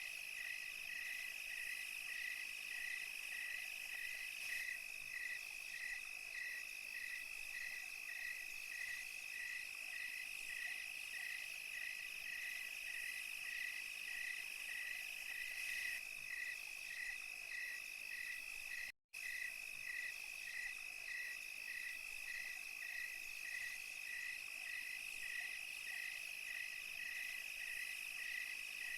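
Night-time chorus of crickets and other insects: a steady high trill with an even chirp repeating about twice a second. The audio cuts out for an instant about two-thirds of the way through.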